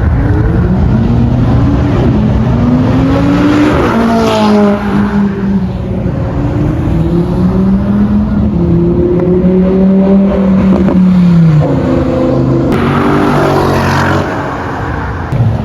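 A performance car's engine under hard throttle, its pitch climbing slowly and dropping sharply about four and a half seconds in and again about eleven and a half seconds in, as at gear changes.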